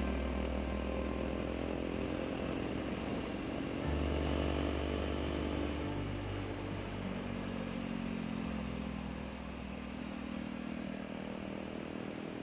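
KTM 390 Duke's single-cylinder engine running under way, its pitch rising and falling with the throttle, over a heavy low rumble.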